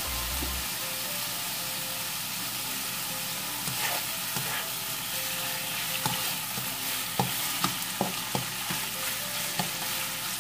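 Pork sizzling as it fries in a little vegetable oil in a pan, a steady hiss. From about four seconds in, a utensil clicks and scrapes against the pan now and then as the meat is stirred.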